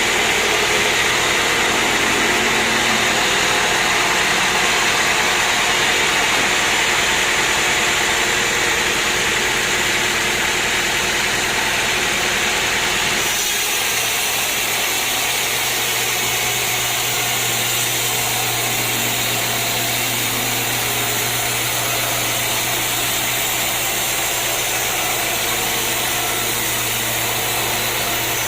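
Sawmill machinery running, a steady loud mechanical noise. About halfway through the sound changes and a steady low hum comes in.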